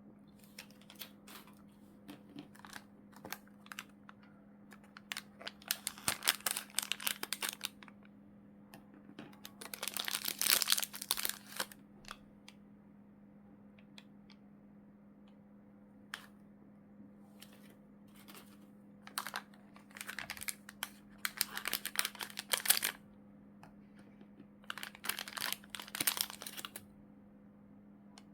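Plastic packaging crinkling as it is handled and opened, in four bursts of a few seconds each, with small clicks and taps in between. A steady low hum runs underneath.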